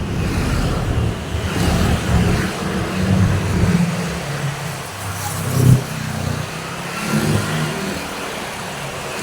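Road traffic: motor vehicles passing on a main road, a low engine rumble that swells and fades as they go by, loudest a little past the middle.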